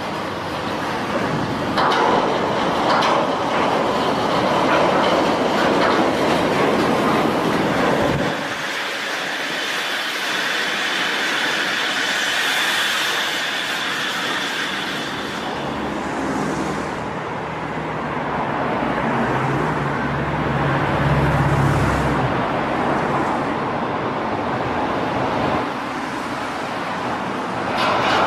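A train running, a steady rushing rail noise that changes abruptly about eight seconds in and again near the end.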